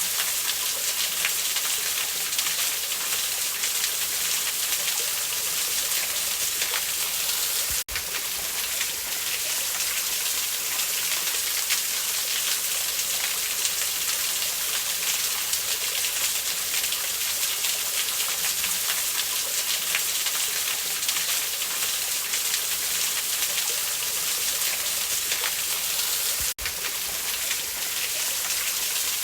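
Steady rushing of a waterfall, a dense even hiss, which cuts out for a split second twice, about 8 seconds in and near the end.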